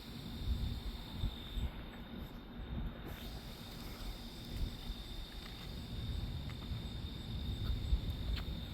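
Insects, crickets by their sound, trilling steadily at one high pitch over a low, uneven outdoor rumble.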